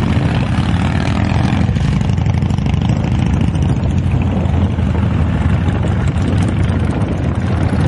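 Many motorcycle engines running in slow rally street traffic, a loud, steady low rumble.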